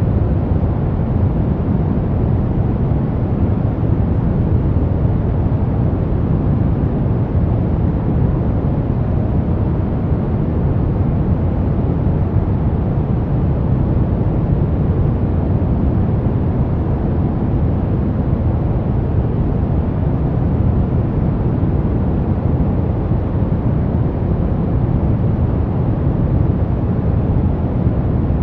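Steady brown noise: an even, deep rumbling hiss, strongest in the lows and fading toward the highs, with no changes.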